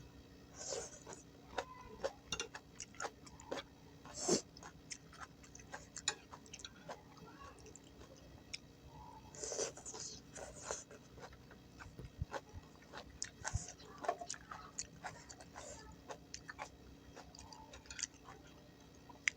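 Mouth sounds of someone eating gado-gado, vegetables in peanut sauce: many small irregular wet clicks and smacks, with a few louder crunchy bites.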